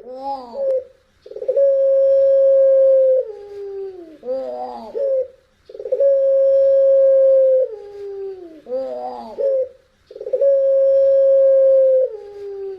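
Puter pelung dove cooing: long, howl-like held notes that slide down in pitch at the end, each followed by a short warbling flourish, repeated about every four and a half seconds.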